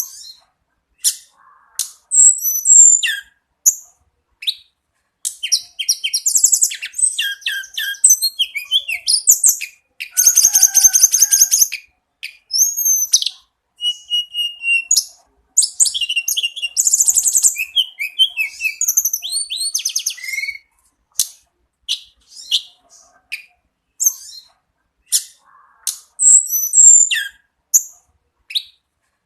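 Tledekan gunung (hill blue flycatcher) singing in full voice: rapid, varied phrases of high chirps, buzzy trills and short whistled notes, broken by brief pauses.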